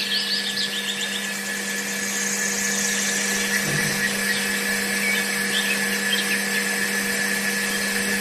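A small electric motor running at a constant speed with a steady whine.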